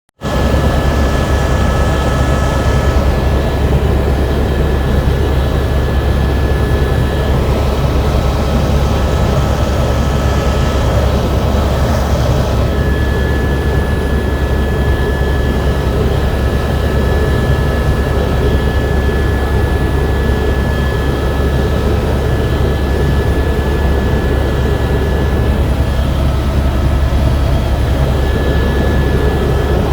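Helicopter turbine and rotor drone heard from inside the cabin: a loud, steady low hum with a thin high whine running over it.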